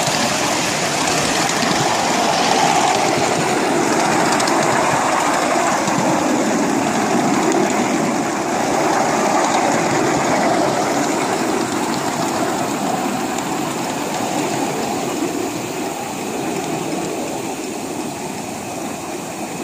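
A train running along its track: a steady rattle and rumble of wheels on rails that eases off a little in the last few seconds.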